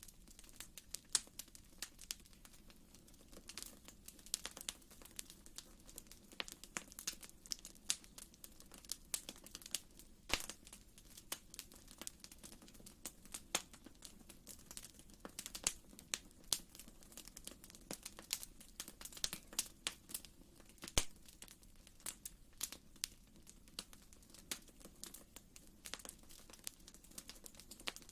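Wood fire in a fireplace crackling, with irregular sharp pops, a few louder than the rest, over a low steady rumble.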